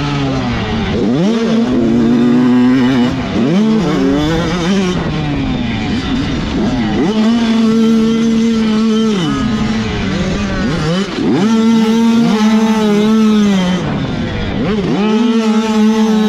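Several 85cc two-stroke motocross bikes racing, their engines revving hard. Each bike's pitch climbs steeply through the gears, holds high for a couple of seconds, then drops off, with the bikes' notes overlapping.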